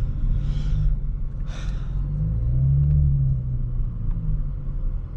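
Audi S5 engine running under way, its revs rising to a peak about three seconds in and then easing off. A few short hissing swishes sound in the first two seconds.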